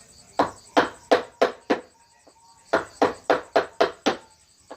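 Mallet striking a carving chisel into wood, in two runs of quick blows, five then six, about three a second with a short pause between.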